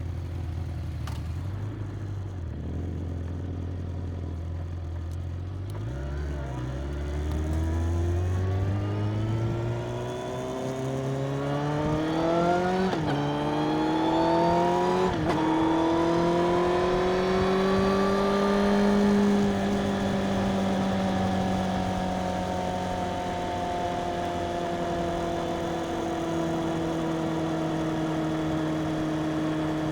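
Stock Suzuki GSX-R750's inline-four engine accelerating: its pitch climbs from a low note through the gears, with two quick upshifts close together near the middle. It then settles into a steady cruise, its note slowly falling.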